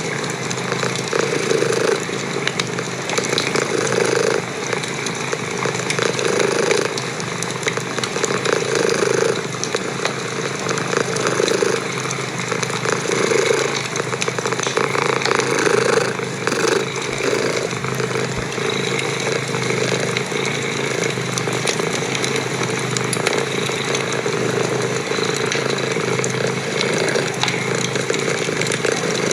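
Domestic cat purring loudly and steadily, swelling with each breath about every two seconds, over the crackle and pops of a wood fire in a fireplace.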